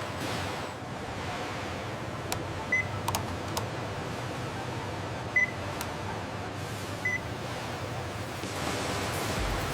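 Workshop ambience: a steady background hum, a few sharp clicks, and three short high electronic beeps spaced a couple of seconds apart.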